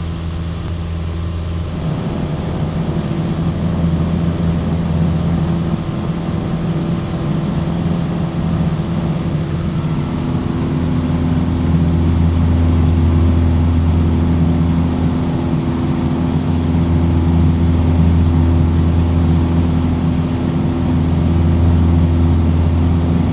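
Piper Cherokee's piston engine and propeller droning steadily in cruise, heard inside the cabin. About ten seconds in, the tone shifts a little and the drone grows slightly louder.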